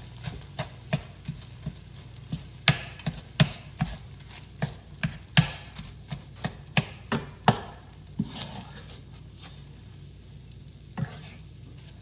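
A utensil knocking against a frying pan, two or three sharp knocks a second, while ground turkey and onions are stirred and broken up as they fry. The knocks stop about eight seconds in, with one more near the end.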